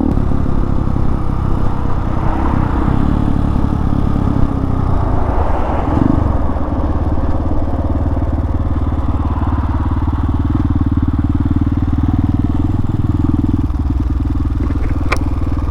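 Hawk 250 dual-sport motorcycle's single-cylinder engine running at a steady cruising speed, with a constant rush of air over it. There is a single sharp click near the end.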